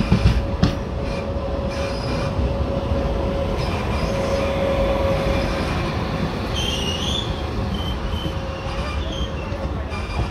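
Shalimar Express passenger coaches rolling slowly out of the station, heard from the coach doorway: a steady low rumble of wheels on rail, with a few clanks just after the start. Over it runs a thin, steady wheel squeal that is strongest about halfway through.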